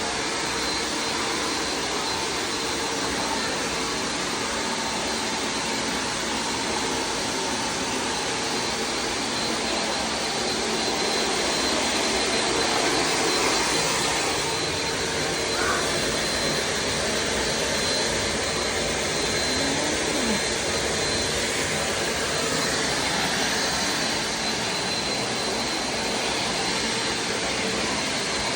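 Vacuum cleaner running steadily, a continuous hiss of rushing air with a thin high whine from the motor.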